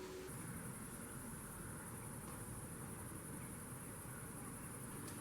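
Faint, steady high-pitched trilling of insects that does not let up, over a low background hiss.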